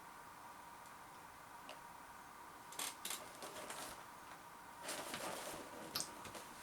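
Faint clicks and rustles of a cracker box or packet being handled, in short bursts about three seconds in and again around five to six seconds in.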